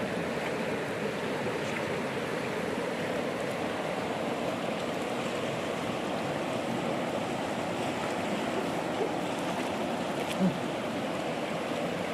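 River water flowing in a steady rush, with one short soft knock about ten and a half seconds in.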